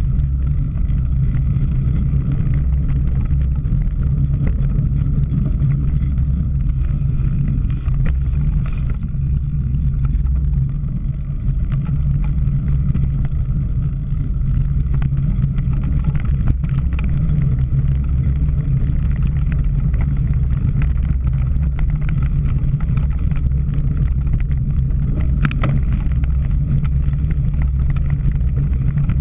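Steady low wind rumble buffeting the microphone of a camera riding along on a cyclocross bike, with occasional light clicks and rattles from the bike.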